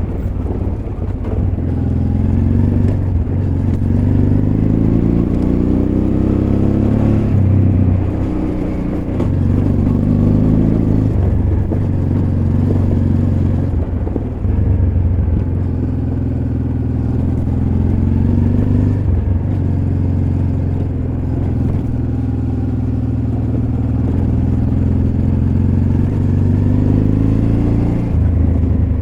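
Honda Transalp XL600V's V-twin engine running on the move, its pitch rising and falling with the throttle and dropping off briefly several times.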